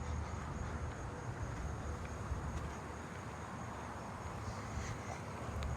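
Crickets trilling steadily, a thin high continuous trill, over a low rumble.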